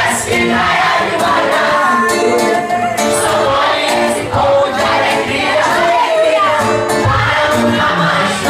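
Live pop band music with a singer, over a steady beat.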